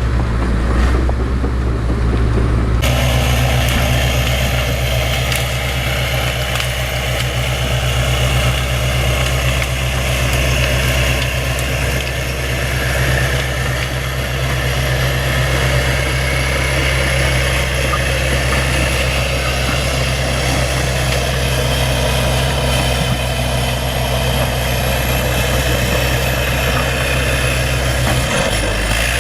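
Bulldozer's diesel engine running steadily, with a higher mechanical clatter and hiss joining about three seconds in.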